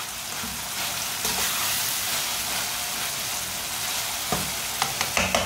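Chopped tomatoes and onions sizzling in hot oil in a metal karahi, stirred with a slotted metal spatula. There is a steady frying hiss, with a few sharp clicks of the spatula against the pan near the end.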